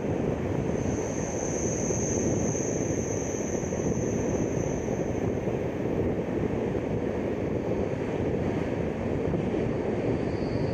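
Steady running rumble of a moving passenger train, with a thin high whine in the first half and briefly again near the end.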